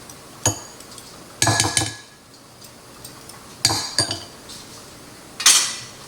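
A utensil clinking and scraping against a mixing bowl while mayonnaise, sour cream and buttermilk are stirred together, in four short bursts of clatter, the loudest near the end.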